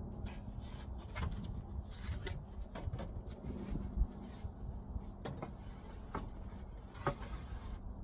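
Scattered light clicks and knocks, with a few scrapes, from hands working on the heat pump's cover, over a steady low hum.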